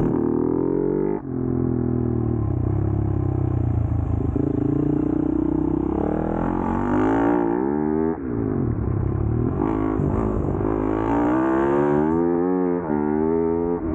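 Flat track race motorcycle engine running and revving. Its pitch rises and falls in repeated sweeps, with brief cuts about a second in, about halfway and near the end.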